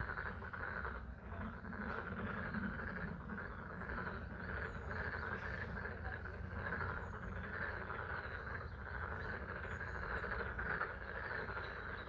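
A dense, steady chorus of frogs calling, with rain falling and a low rumble underneath.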